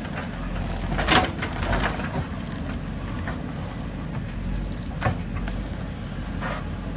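JCB 3DX backhoe loader's diesel engine running steadily, with a few sharp knocks of the working gear, the loudest about a second in and another near five seconds.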